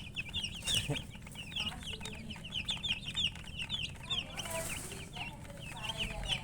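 Baby chicks peeping constantly: many short, high, downward-sliding chirps overlapping several times a second. A hen clucks low now and then, mostly in the second half.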